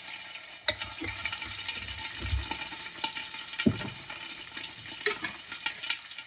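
Ginger-garlic paste sizzling in hot oil, stirred with a spoon that clicks and scrapes against the pan now and then.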